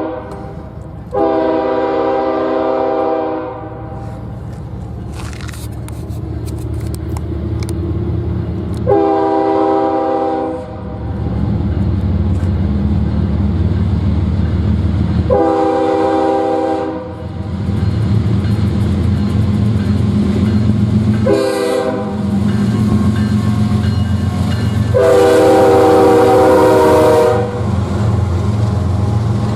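Diesel locomotive's multi-chime air horn sounding a series of blasts: two long ones, a shorter one, a brief toot and a final long one, in the manner of a grade-crossing signal. Beneath the horn, a steady low train rumble grows as the train comes closer.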